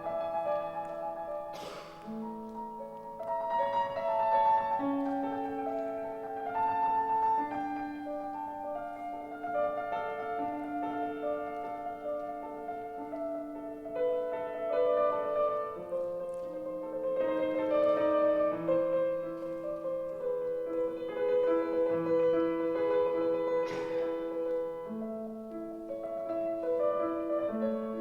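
Solo piano playing a slow classical piece with long held notes. Two brief clicks sound over it, about two seconds in and near the end.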